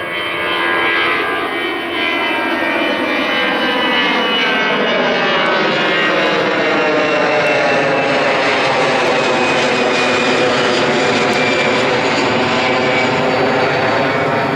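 Airbus A320 jet engines at high thrust as the airliner passes, a loud steady rushing noise with a slowly sweeping, phasing tone that dips and rises again.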